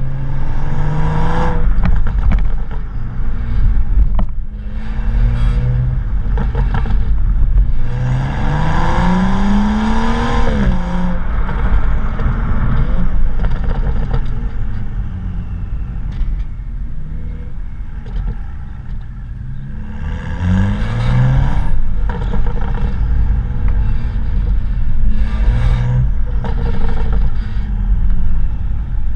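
BMW M235i's turbocharged straight-six exhaust running, with the revs climbing several times, the longest climb about a third of the way through. Under it is a tinny rattling vibration from the exhaust: the inner clamps in one section of the BMS exhaust tips have disintegrated and are rattling around.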